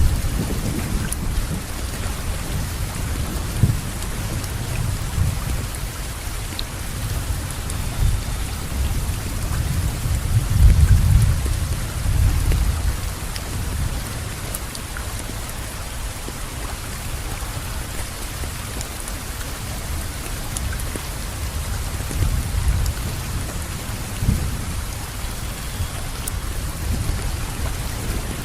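Steady rainfall with a low rumble of thunder underneath, the rumble swelling about ten seconds in and easing off again.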